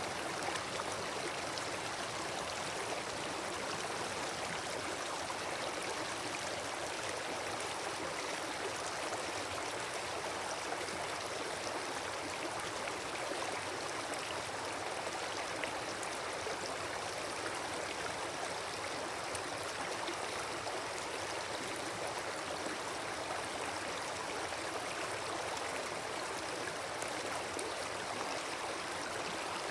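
Wood campfire burning, a steady rushing hiss with scattered faint crackles and pops.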